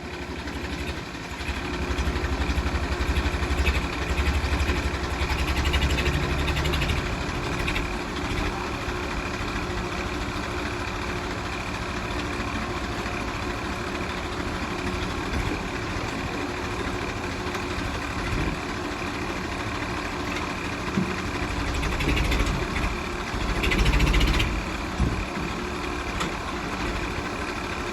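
International DI 740 tractor's diesel engine running steadily, rising louder twice as it is revved: first for several seconds from about a second in, then again briefly after about twenty-two seconds.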